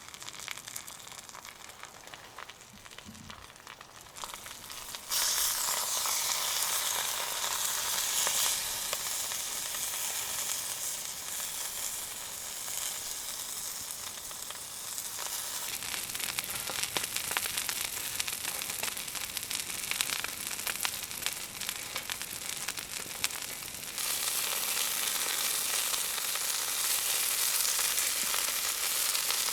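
Food frying in a pan over a campfire, a dense steady sizzle that starts abruptly about five seconds in after a quieter stretch and gets louder again near the end.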